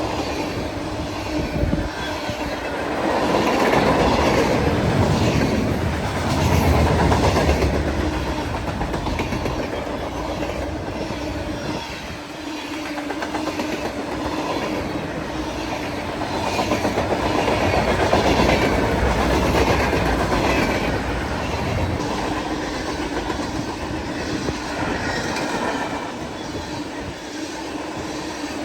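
Freight train cars rolling past, their wheels clicking rhythmically over rail joints over a steady hum. The sound swells and eases as the cars go by.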